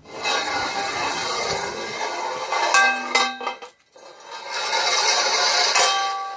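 Loud metallic clanging and ringing from a fence post, in two long bouts with a few sharper strikes about three seconds in.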